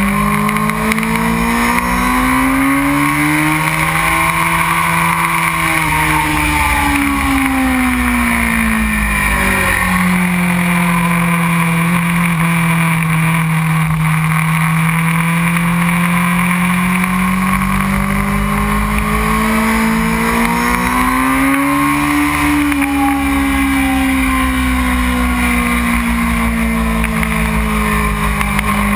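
2001 Honda CBR600 F4i's inline-four engine running hard under steady wind rush, heard from the bike itself. The engine pitch climbs and falls back twice, peaking about five seconds in and again about twenty-two seconds in, and holds steady in between.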